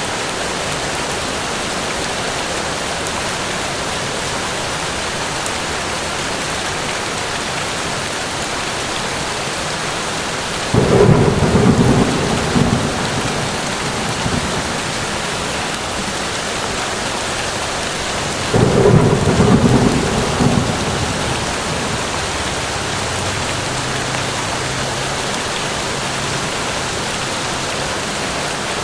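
Steady rain falling, with two sudden rumbles of thunder about eleven and nineteen seconds in, each dying away over a couple of seconds.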